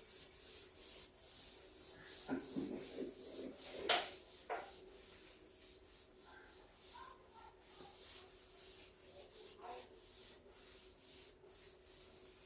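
Faint scratching and rubbing of writing strokes, with a few louder short scrapes and taps in the first half.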